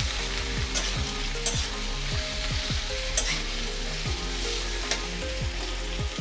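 Chopped onion, capsicum and tomato sizzling in hot mustard oil in a steel kadai, stirred with a steel spatula that scrapes and clicks against the pan now and then.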